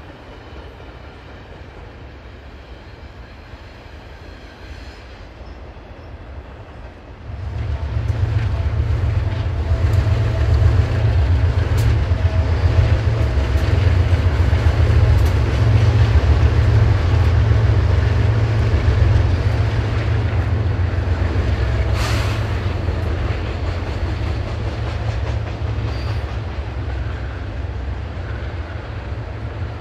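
A freight train's GE diesel-electric locomotives working hard as they pass. A faint distant rumble turns, about a quarter of the way in, into a loud, deep engine drone over the rolling of wheels on rail, which eases slowly toward the end, with a short rushing sound about two-thirds of the way through.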